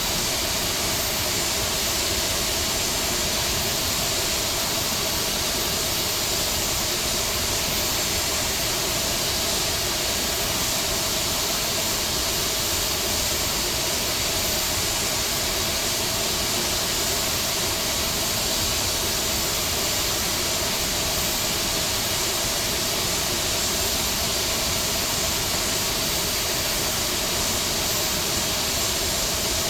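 Steady flight-deck noise of an Airbus A321neo: a constant rush of air with faint steady hums, unchanging throughout.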